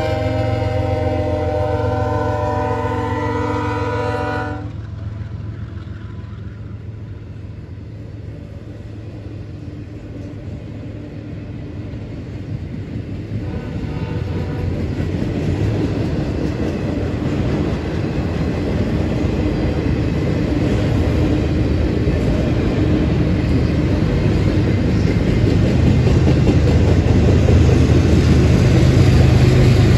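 CSX freight train led by a GE ES44AH: the locomotive's air horn sounds a chord that cuts off about four and a half seconds in. Then double-stack container cars roll past, the wheel rumble and clatter on the rails growing louder.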